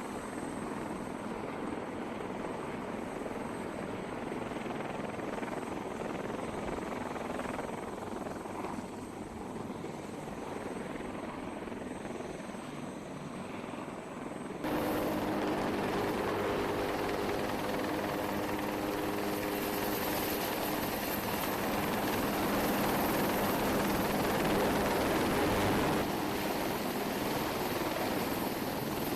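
Helicopter rotor and turbine noise running steadily. About halfway through it cuts to a louder stretch with a steady droning hum.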